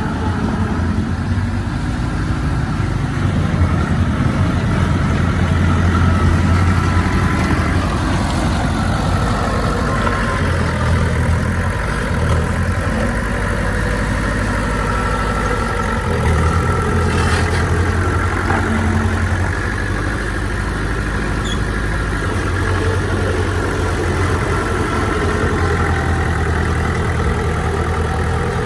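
Heavy diesel engine of earthmoving machinery running under varying load, its revs rising and falling, with a single short knock about halfway through.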